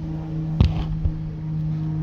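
A steady low mechanical hum from the 4Runner's engine bay, with one sharp knock a little over half a second in.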